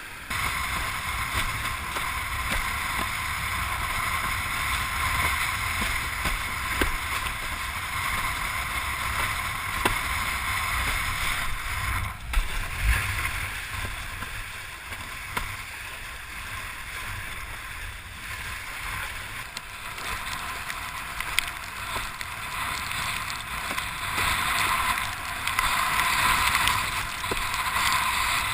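Wind buffeting the microphone over water rushing and splashing past a windsurf board, a steady rumbling hiss with a few short knocks.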